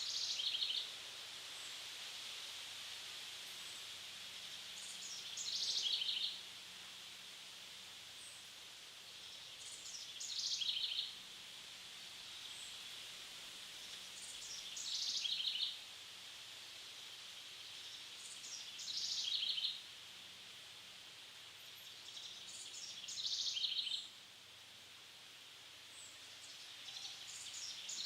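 A bird repeating the same short, high chirping phrase about every four to five seconds, each phrase lasting about a second, over a steady high hiss.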